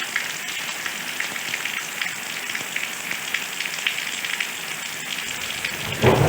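Steady rain falling on a surface, a dense patter of drops. A low rumble of thunder builds near the end and breaks loud just before it ends.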